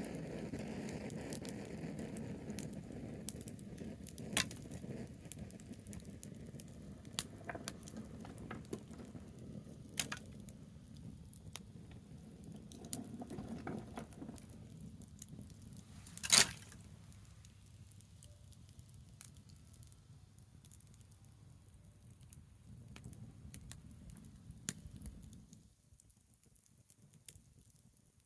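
Fire of burning branches crackling with scattered sharp pops, one much louder pop about sixteen seconds in, over a low rumble that fades out near the end.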